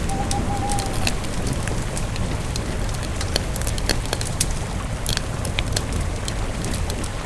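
Campfire burning, with irregular sharp crackles and pops over a steady low rumble. In the first second a single held, slightly arching tone sounds and then stops.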